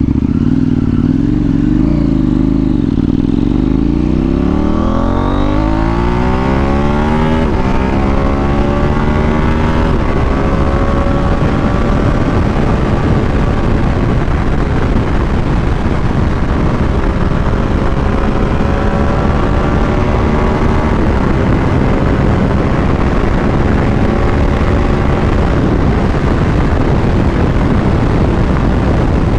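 Superbike engine accelerating hard, its pitch rising steadily over the first several seconds, then holding a high, steady speed under a heavy rush of wind and road noise.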